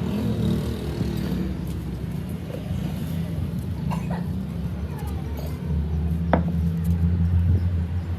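Steady low running of an engine or machine, with a deeper drone growing stronger a little past halfway and a sharp click soon after.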